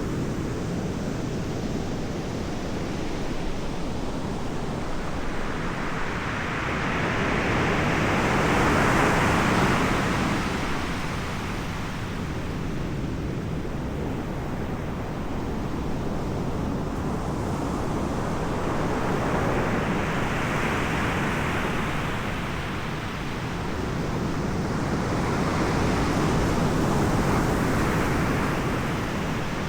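Ocean surf: waves breaking and washing in about every ten seconds, each swelling up and fading away over a few seconds, over a steady low rumble.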